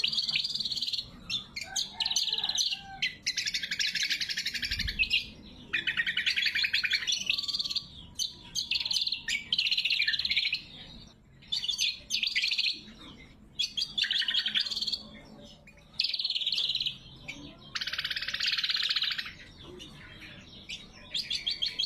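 Greater green leafbird (cucak kombo) singing loud, high, fast chattering phrases, each about one to two seconds long, with short pauses between them. There is a brief low thump about five seconds in.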